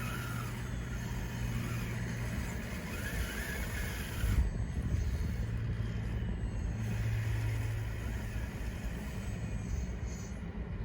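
Radio-controlled model bulldozer running, with a steady low motor hum and a gear whine that rises and falls a couple of times. A louder knock comes about four and a half seconds in.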